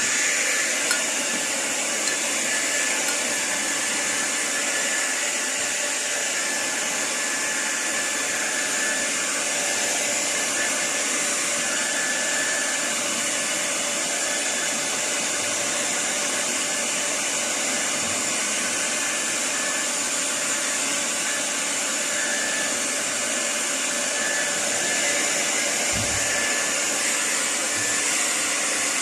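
Small personal hair dryer running continuously, a steady rush of blown air with a faint motor whine.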